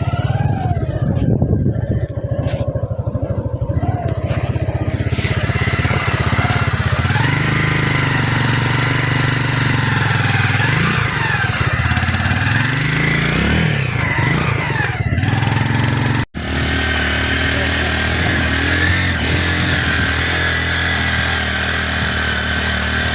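Motorcycle engine running under way, its revs rising and falling, with rushing wind. The sound drops out for an instant about sixteen seconds in, then carries on steadily.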